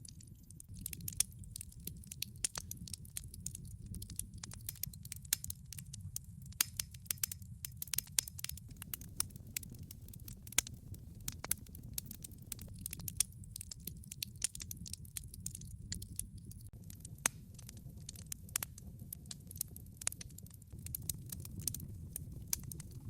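Wood fire burning in a fireplace: many small, irregular crackles and pops from the burning logs over a low, steady rumble.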